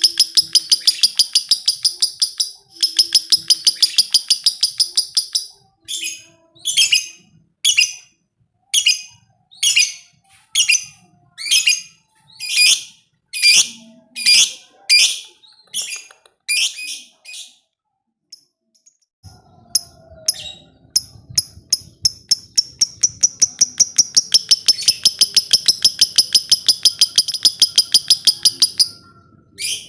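Lovebird 'ngekek': long chattering trills of rapidly repeated high notes. Two trills come near the start and a long one near the end, with single sharp chirps about once a second in between.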